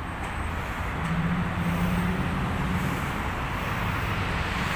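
City street traffic with a steady low engine hum from a vehicle running close by, growing slowly louder.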